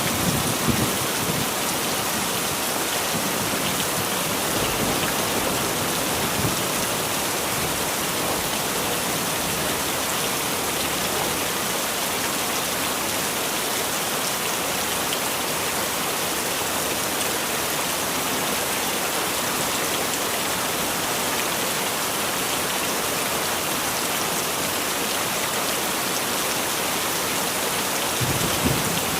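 Heavy rain falling steadily, a dense even hiss. A low rumble of thunder sounds at the very start and again near the end.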